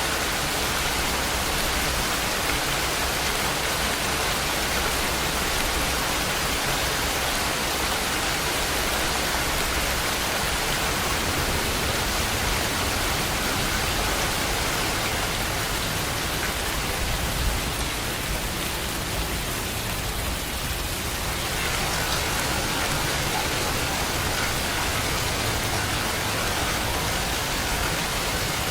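Steady rain, a continuous even hiss of falling rain on surfaces, with a brief slight lull about twenty seconds in.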